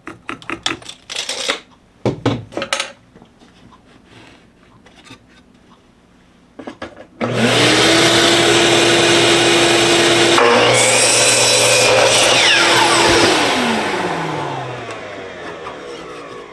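A few knocks and clicks of boards being handled, then about seven seconds in an electric miter saw starts up loud and steady and cuts through a cedar fence picket, and near the end its motor winds down with a falling pitch.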